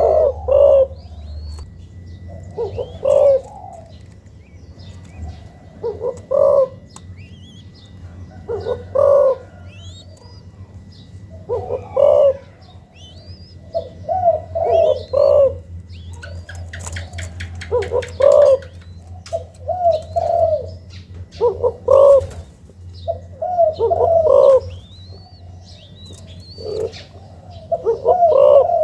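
Young spotted doves cooing: a short, deep coo phrase repeated about every three seconds, with small birds chirping faintly in the background over a low steady hum.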